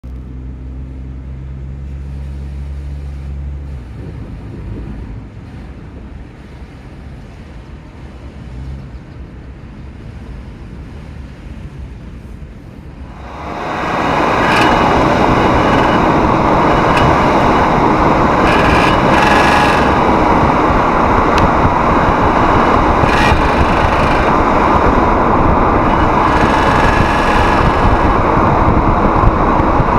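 Car on the move: a low engine and road rumble, then about 13 seconds in a loud, steady rushing noise sets in and holds.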